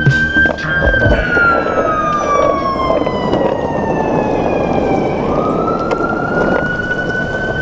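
Siren wailing: one held tone that slowly falls in pitch for about four seconds, then sweeps back up and holds, over a steady rush of noise.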